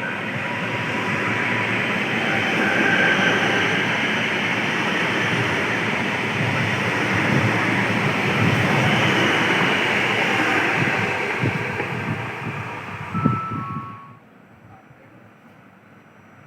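A train passing through the station at speed: a loud, steady rumble of wheels on rail with irregular knocks. It drops off abruptly about fourteen seconds in.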